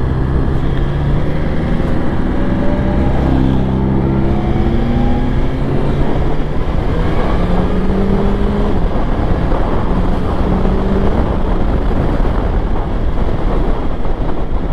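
BMW S1000XR's inline-four engine pulling through the gears, its pitch climbing in several steps with a drop at each upshift, over a steady rush of wind and road noise.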